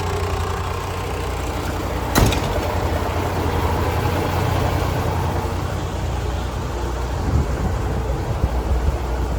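MAN TGS 32.364 concrete mixer truck's six-cylinder diesel engine running steadily, with one sharp click about two seconds in.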